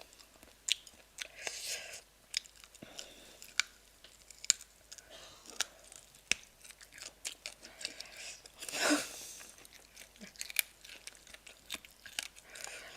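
Close-up chewing and crunching of crisp, spicy chicken feet: a steady string of small sharp crackles and bites, with one louder half-second rush of noise about nine seconds in.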